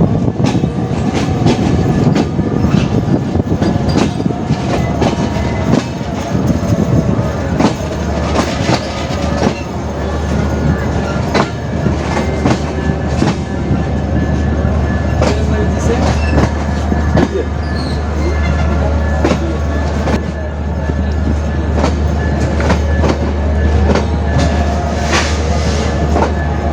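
Passenger train rolling into a station, its wheels clattering over rail joints with irregular knocks. A steady low hum sets in about eight seconds in.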